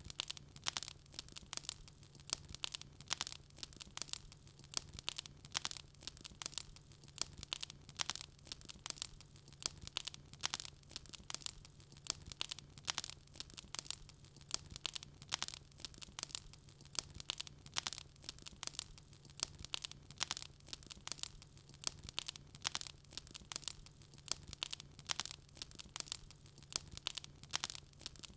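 Wood fire crackling: a steady stream of irregular sharp pops and snaps, several a second, over a faint steady low hum.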